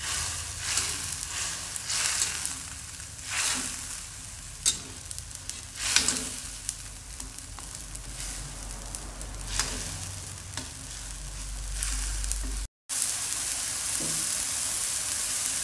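Ground spice paste of chili, ginger and turmeric sizzling in hot oil in a wok, stirred with a spatula that scrapes and knocks against the pan in irregular strokes. The sound drops out for a moment near the end.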